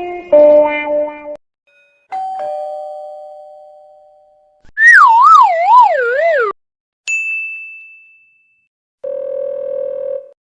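A run of short stock sound effects, one after another with gaps between them. First the last notes of a jingle, then a two-tone chime that fades out. Then the loudest, a wavering tone that falls in pitch, followed by a single high ding that rings out and a flat, steady buzzer near the end.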